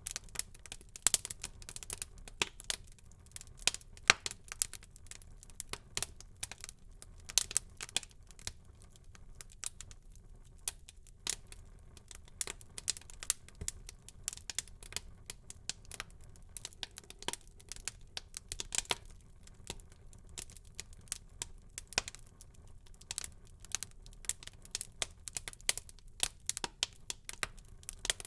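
Wood fire burning in a fireplace, crackling with many irregular sharp pops and snaps over a faint low rumble of the flames.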